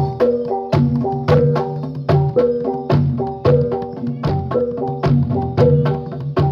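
Javanese jathilan gamelan music: sharp drum strokes and struck, ringing pitched tones in a fast, steadily repeating rhythmic pattern.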